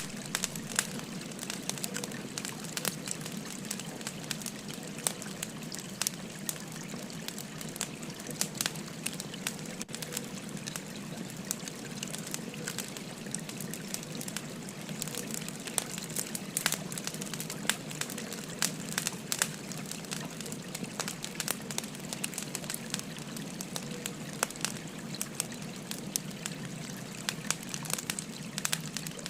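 Wood fire crackling with many sharp pops, over the steady rush of a gently babbling river.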